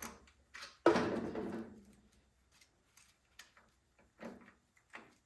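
A sudden clunk about a second in that rings out and fades over about a second, then a few faint clicks and taps: a screwdriver and carburetor parts being handled while the carburetor is fitted back onto the engine.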